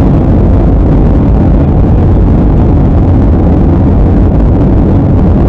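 Jet airliner cabin noise in flight: a steady, loud, low-pitched rush of engine and airflow noise heard from inside the cabin.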